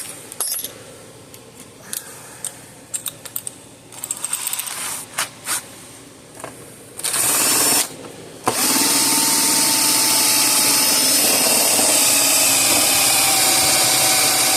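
Scattered clicks and knocks of a tool being handled, then an electric drill runs in a short burst and, about halfway through, starts running steadily, boring a hole.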